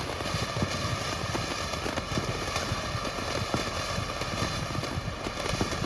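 Consumer firework fountain burning: a steady hiss of sparks with dense, irregular crackling pops.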